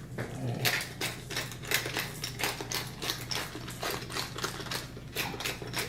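Hand spice mill being twisted to grind seasoning, a run of quick ratcheting clicks at about four a second.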